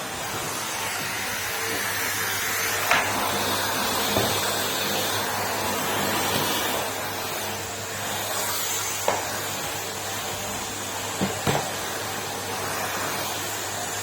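Numatic Henry cylinder vacuum cleaner running steadily, with a few short sharp knocks about 3, 4, 9 and 11 seconds in.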